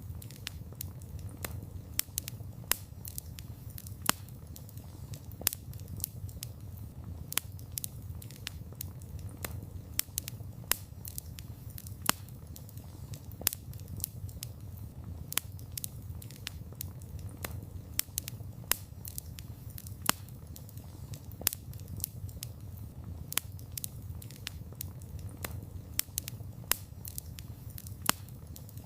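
Wood campfire burning: a steady low rumble of flame with irregular crackles several times a second and a few louder pops and snaps.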